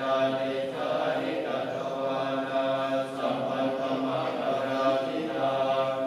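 Low chanting held on one steady pitch, with slight swells in loudness.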